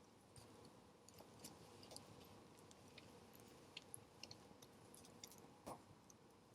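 Wood fire crackling faintly, with small irregular pops and a louder snap near the end.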